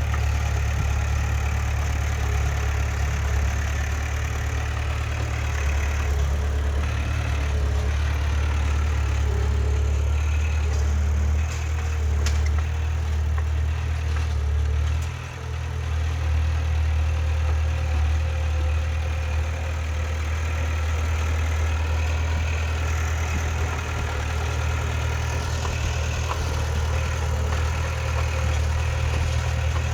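Heavy diesel engine of an earthmoving machine running steadily with a deep low drone, dipping briefly about halfway through.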